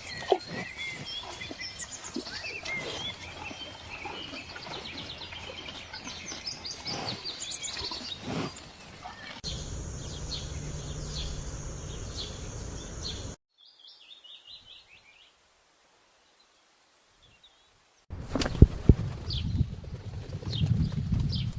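Birds chirping and calling, many short chirps and trills over outdoor noise, for the first nine seconds or so. This gives way to a steady hum with a few chirps, a brief run of faint chirps, a few seconds of silence, and near the end a louder stretch with sharp knocks.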